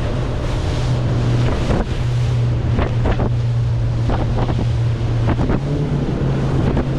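Boat motor running steadily at speed while the boat is under way in choppy water, with wind buffeting the microphone and several sharp slaps of the hull on the waves.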